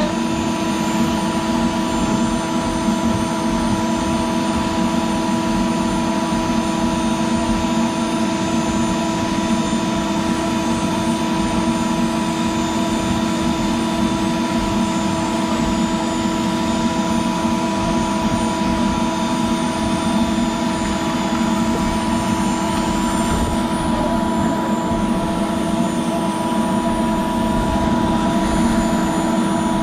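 CNC router spindle running steadily while a 45° V-bit carves PVC: a constant whine of several steady tones over a rushing noise.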